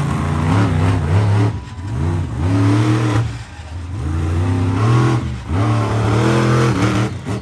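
Monster truck engine revving hard in about four surges, the pitch climbing through each and dropping as the throttle is let off.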